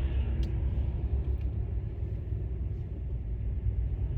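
Steady low road and engine rumble of a car driving through city streets, heard from inside the cabin.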